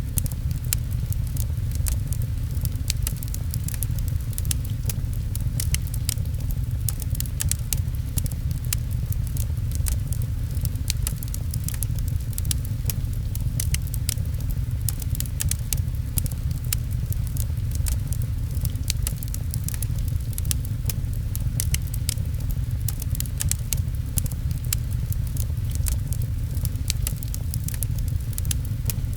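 Fireplace crackling with many small, irregular pops, over the steady low rumble and patter of rain on a window.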